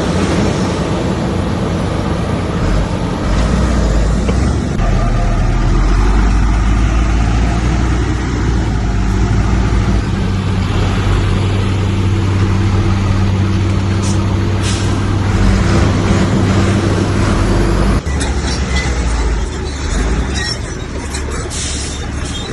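Bulldozer's heavy diesel engine running hard at a steady pitch. About three-quarters of the way through it cuts off abruptly to a lighter engine sound with scattered metallic clanks and knocks.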